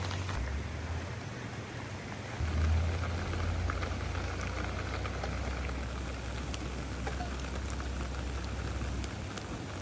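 Steady rain falling, with scattered drop ticks, and a low rumble underneath from about two seconds in until near the end.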